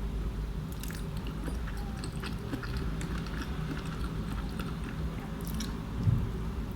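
Close-up chewing of a breakfast burrito: scattered soft, wet mouth clicks over a low steady hum, with one low thump about six seconds in.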